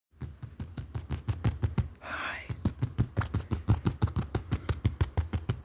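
Rapid, even tapping close to the microphone, about seven taps a second, with a short breathy hiss about two seconds in.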